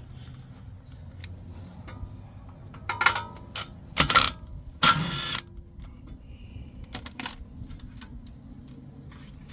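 Hand tools and loose metal parts clinking against each other, with scattered light clicks and a few sharper metallic clanks about three to five seconds in, some briefly ringing.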